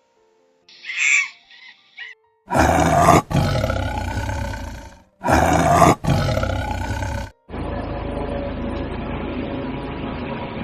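Big cat roaring twice, each roar loud and about two to three seconds long. A short bird call comes before the roars, and a steady rushing noise follows them.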